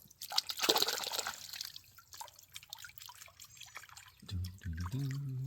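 Creek water splashing and dripping as gravel and mud are worked by hand, with small clicks of stones; busiest in the first second and a half, then scattered drips. A brief low hum comes near the end.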